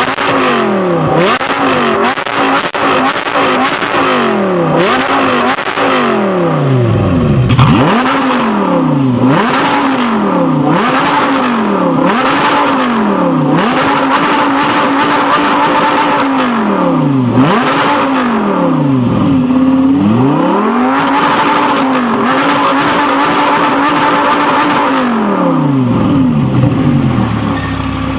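Audi R8 V10 Plus's 5.2-litre V10 through an Armytrix titanium exhaust, revved over and over: quick blips that rise and fall about once a second, then longer pulls held at higher revs for a few seconds, with sharp crackles as the revs drop. It settles back to idle near the end.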